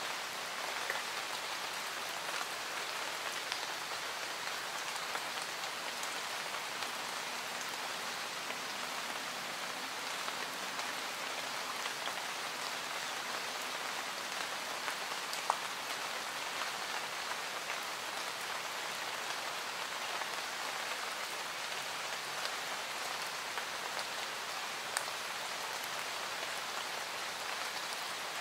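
Added rain-sound track: steady rain falling, an even hiss with scattered sharper drop ticks, the clearest one about halfway through and another near the end.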